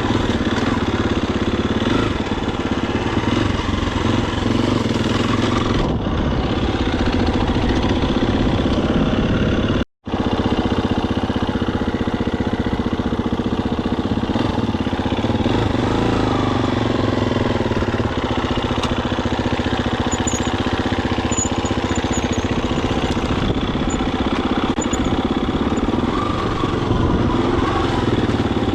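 Husqvarna FE250 single-cylinder four-stroke dirt bike engine running steadily under way. The sound cuts out for an instant about ten seconds in.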